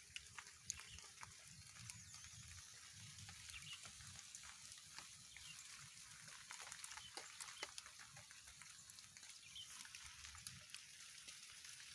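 Faint crackling and sizzling: a pucung bird (heron) roasting over a fire, with scattered sharp pops over a steady hiss.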